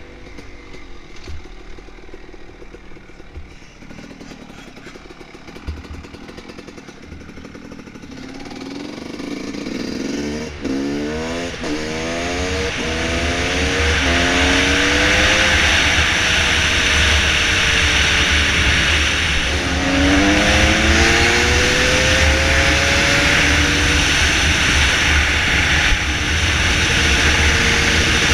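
Dirt bike engine running low and quiet at first, then accelerating hard from about nine seconds in, its pitch climbing and dropping back several times as it shifts up through the gears, with another run of upshifts about twenty seconds in. A loud rush of wind noise builds as speed rises.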